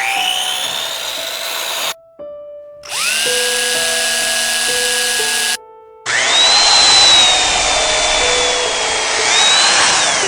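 Electric drill-type power tool spinning up with a rising whine and then running steadily, cutting into wood, heard in three short takes that each start abruptly. Background music plays under it.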